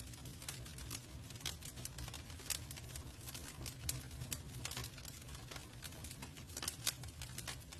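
Wood campfire burning: irregular sharp crackles and pops from the wood over a steady low rumble of the flames, with a few louder pops scattered through.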